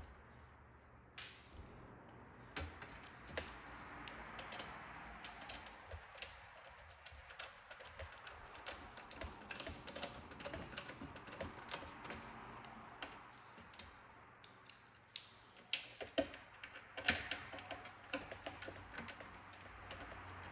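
Irregular light clicks and taps of small hard parts being handled and fitted by hand, growing busier and louder in the last few seconds, over a low steady hum.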